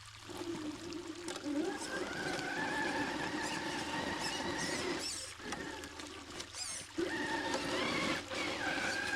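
Electric drive motor and gears of an RC rock crawler whining under throttle, the pitch wavering and cutting out briefly a few times, over trickling water.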